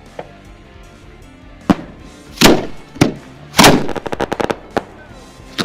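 Fireworks bursting: about five sharp booms a half-second to a second apart, with a rapid run of crackling pops in the middle, over music.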